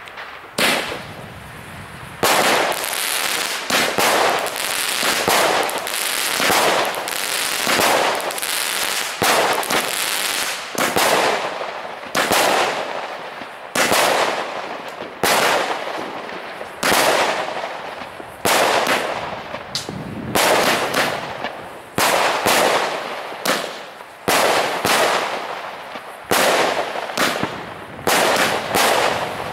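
A 36-shot firework cake, Nico 'Dragon Blood', firing shot after shot, about one a second, each a sharp bang that trails off before the next.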